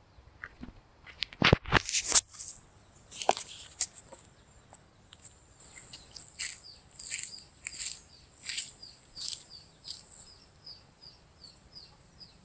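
A bird chirps outdoors in a long, even series of short high notes, a little under two a second. A few loud knocks and rustles come a second or two in.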